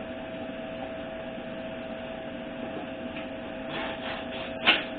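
A part being fitted onto a 4L60E automatic transmission, over a steady hum with a constant tone. Scraping and handling noises come in near the end, then a single sharp knock.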